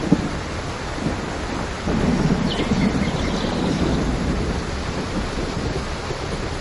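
Steady rain falling, with a low rumble of thunder that swells about two seconds in and slowly fades.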